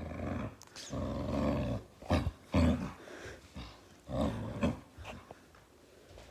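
Dog growling in a series of separate growls with short pauses between them. The longest lasts nearly a second, about a second in, and the loudest comes about two and a half seconds in.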